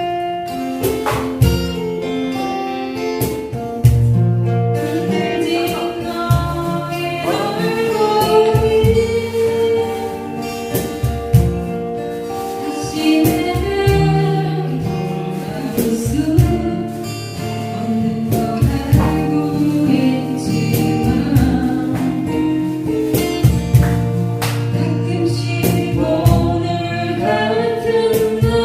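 Singing of a song accompanied by strummed acoustic guitar, with held sung notes over a steady strumming rhythm.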